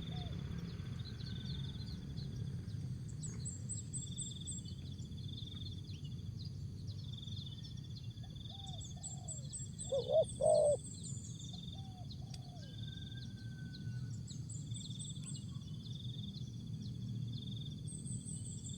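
Spotted dove cooing briefly about ten seconds in, a short cluster of low notes with fainter single notes around it. Small birds chirp high in the background over a steady low hum, with a short high-pitched pulse repeating about every second or so.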